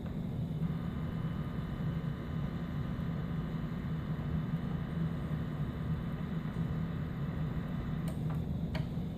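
Lionel R-30 O-gauge model subway train under track power from the transformer: a steady electrical hum with motor whir, and a few light clicks near the end.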